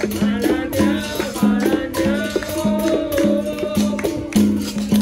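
Capoeira roda music: a berimbau alternating between two low notes in a steady rhythm, with rattle and percussion strokes. A singing voice wavers above it.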